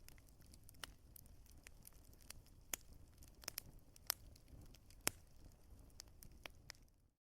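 Wood fire crackling: irregular sharp pops and snaps over a low, steady rumble of burning, cutting off suddenly near the end.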